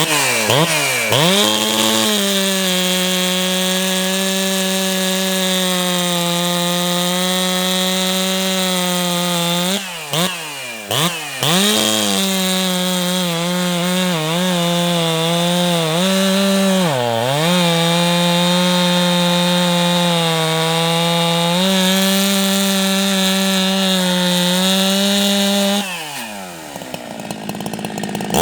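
Ported two-stroke chainsaw at full throttle cutting through soft pine, its engine pitch held high and steady under load. It briefly drops off and picks back up about ten seconds in, dips once more midway through, and falls back toward idle near the end.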